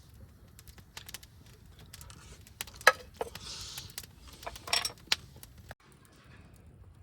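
Wood fire crackling with scattered sharp pops. There is a louder knock just before the middle, a brief hiss just after it, and a quick cluster of pops about two-thirds of the way through.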